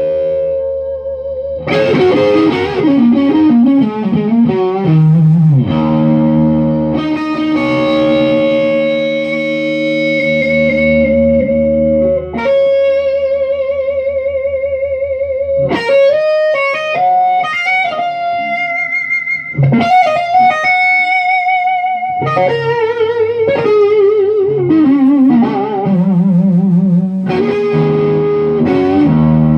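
Electric guitar played through an amp with a light overdrive. It plays held single notes with wide vibrato, bends that slide down in pitch, and ringing chords, with a few short breaks between phrases.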